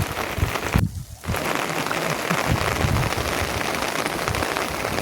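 Steady rain falling, a dense even hiss of drops that drops out briefly about a second in.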